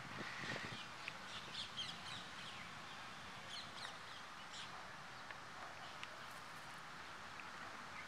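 Birds calling outdoors: a scatter of short calls, most of them in the first half, over a faint steady hiss.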